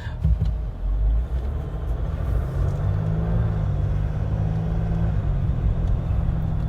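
2021 Jeep Wrangler's 3.0-litre EcoDiesel V6 turbo diesel running under way, heard from inside the cabin as a low drone with road noise, quiet for a diesel. A few knocks in the first second, and the engine note rises slightly a couple of seconds in.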